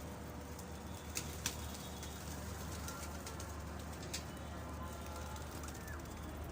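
Domestic pigeons cooing over a steady low hum, with a few short sharp clicks: two about a second in and one around four seconds.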